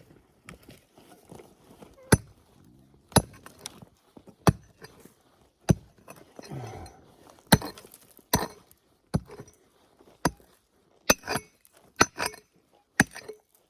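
A pick striking and digging into hard clay ground, about a dozen sharp clinking blows roughly a second apart, as a metal-detector target is dug out.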